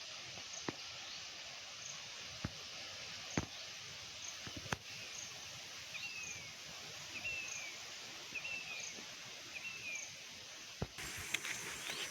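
Steady rain hiss with scattered sharp drips. In the middle a bird gives about four short falling calls, with faint high chirps repeating throughout.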